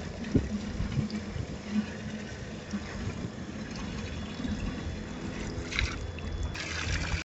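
Water pouring and trickling in an even hiss, with a few faint knocks.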